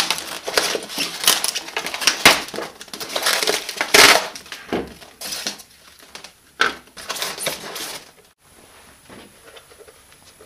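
Hard plastic RC transmitter being handled while its battery cover is opened and four AA batteries are fitted: a run of sharp clicks, knocks and clattering of batteries and plastic that stops about eight seconds in.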